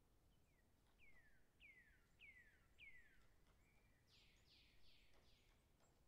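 Faint, distant bird calling: about four clear notes, each sliding down in pitch, roughly one every 0.6 s, then a quicker run of four or five higher, rougher notes near the end.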